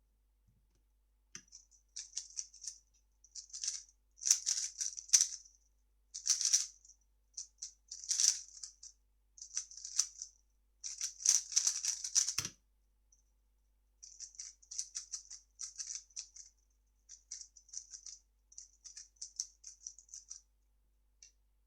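3x3 speedcube being turned fast in rapid bursts of clicking, ending with a single thump about twelve seconds in. After a short pause, more bursts of turning clicks follow.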